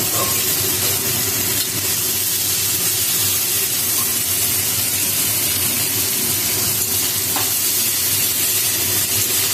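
Chopped onion frying in oil in a wok, sizzling steadily, while a metal spatula stirs and turns it.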